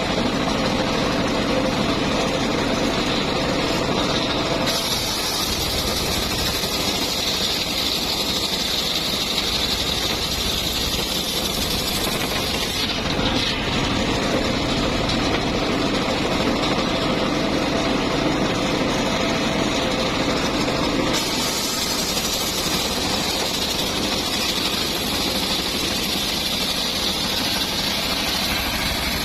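Engine-driven circular saw running steadily through timber. About five seconds in and again about twenty seconds in, the sound turns brighter and hissier for several seconds as the blade works in the wood, with a lower, plainer running sound between.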